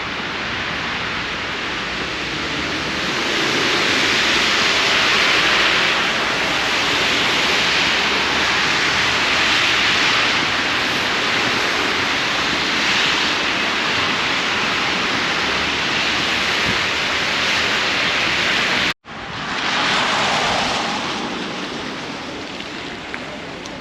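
Blizzard wind, a steady rushing that swells and eases in gusts. It cuts out for an instant about three-quarters of the way through, then resumes and slowly softens.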